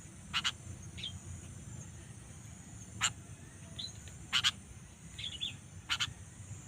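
Sooty-headed bulbul (kutilang) giving short, sharp chirping calls, four loud ones over a few seconds with softer chirps between, over a steady high insect-like hiss.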